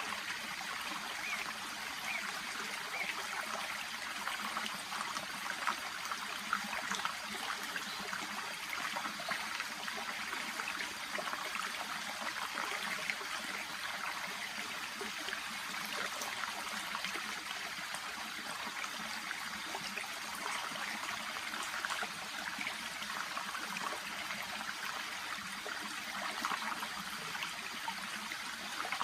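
A shallow stream babbling and trickling steadily, with small splashy flickers in the running water.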